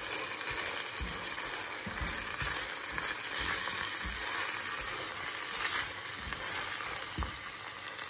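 Chopped onions and curry paste sizzling steadily in hot oil in a stainless steel saucepan while being stirred, the silicone spoon giving soft, irregular knocks against the pan.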